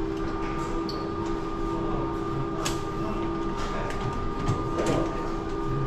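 Train running, heard from inside a carriage: a steady hum with a low rumble underneath and a couple of sharp clicks.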